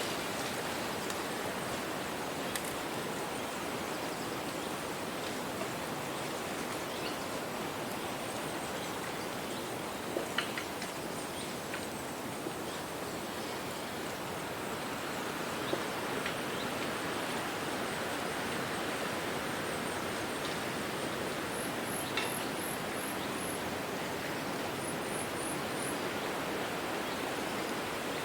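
Wind rustling through tree leaves: a steady hiss with a few small clicks. Near the end come two short runs of quick, high bird chirps.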